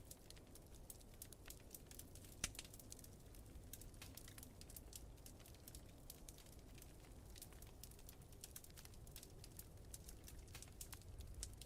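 Wood fire crackling in a fireplace: a quiet, irregular stream of small snaps and pops, with one louder pop about two and a half seconds in, over a low steady rumble.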